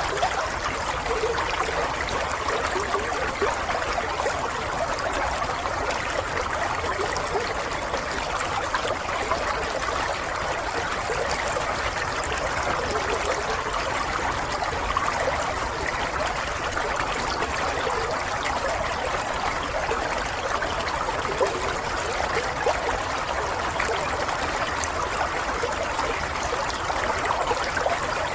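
Water running and trickling steadily, like a small stream flowing over stones, with a continuous bubbling babble.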